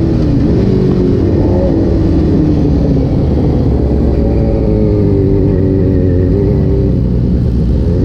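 Supersport motorcycle engine running while riding, with road rumble underneath. The engine note dips briefly, eases down slowly over the next few seconds, then holds fairly steady.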